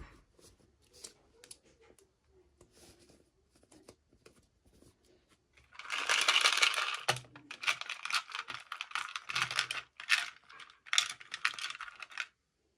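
Packaging being handled and opened during a toy unboxing: a few faint clicks and taps, then from about halfway through, several loud bursts of crinkling and tearing that stop suddenly near the end.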